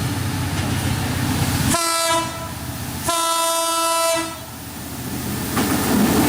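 Sundarbans Express train's horn sounding twice, a short blast and then a longer one, over the running rumble and wheel clatter of the train, which grows louder near the end.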